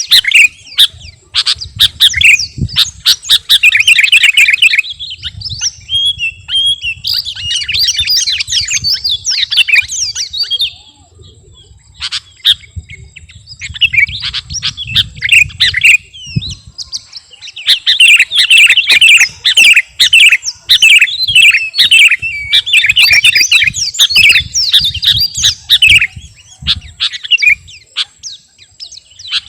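Sooty-headed bulbul (kutilang) singing in rapid, busy bursts of chirping phrases, with a break of a couple of seconds near the middle.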